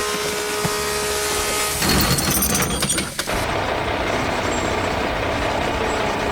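Heavy construction-vehicle engine sound effects running steadily, with a loud hissing, noisy burst lasting about a second and a half, starting about two seconds in.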